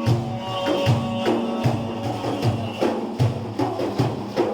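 Hand-drum accompaniment to religious praise singing: frame drums play a steady beat, about two to three strokes a second, over a held instrumental tone.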